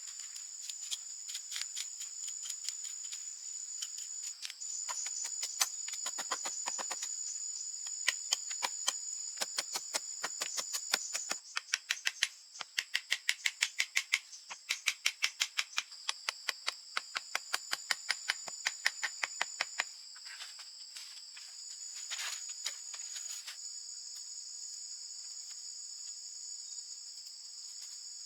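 Rainforest insects singing steadily, with a long run of sharp knocks or taps, several a second, through the middle stretch, stopping near the end.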